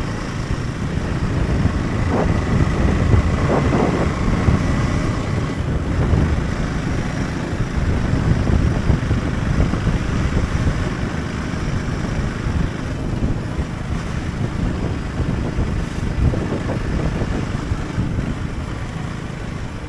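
Wind buffeting the microphone of a moving motorcycle, with the Husqvarna Svartpilen 401's single-cylinder engine running underneath. The level stays steady and loud throughout.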